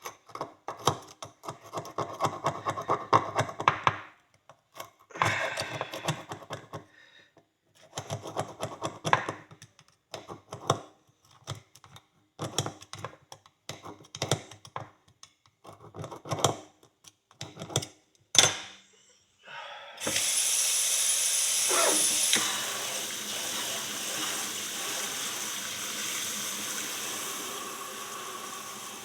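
A hand tool scraping dirt out of a horseshoe's nail crease in quick, rasping strokes, in bursts with short pauses. About two-thirds of the way in, a steady rushing hiss starts suddenly and slowly fades.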